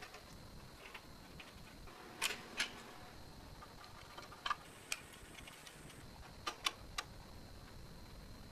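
Scattered sharp clicks and taps, mostly in pairs, about seven in all, over a faint steady high-pitched hum.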